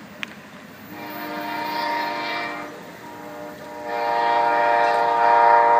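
An Amtrak passenger locomotive's multi-chime air horn sounds twice. The first blast lasts about two seconds. The second blast, starting about four seconds in, is longer and louder and is still sounding at the end.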